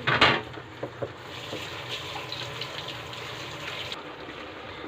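Water sounds: a short loud gush just after the start, then a steady soft watery hiss with faint small ticks.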